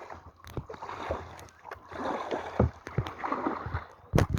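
Kayak paddles dipping and splashing in the water, with a sharp knock near the end.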